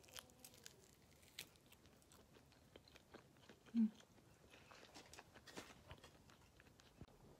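Close-up eating sounds of someone chewing a sauced chicken wing: faint, scattered wet clicks and smacks of the mouth. One short low hum about four seconds in is the loudest moment.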